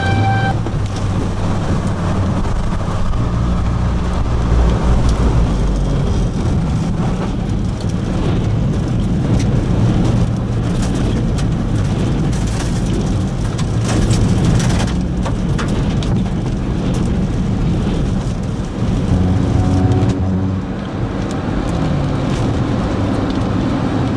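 Tornado wind roaring and buffeting the microphone: a loud, steady, deep rush broken by many sharp clatters.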